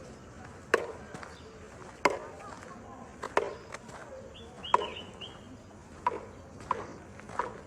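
Footsteps of a person walking on a road, sharp scuffing steps about one every second, some closer together near the end. A bird chirps briefly a few times in the middle.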